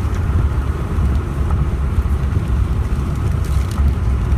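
Steady low rumble of road noise inside a moving car, with a few faint clicks over it.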